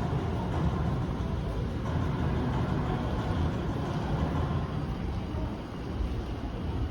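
Steady low rumbling noise with an even hiss above it, cutting off abruptly near the end.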